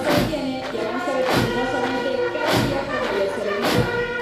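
Military band playing a march: held brass and wind chords over steady, regular bass drum beats.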